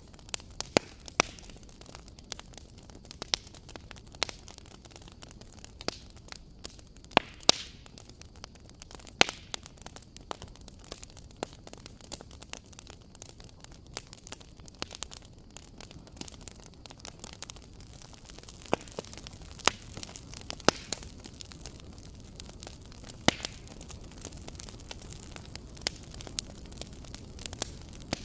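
Fireplace fire crackling: irregular sharp pops and snaps over a soft, steady hiss, with a dozen or so louder pops scattered through.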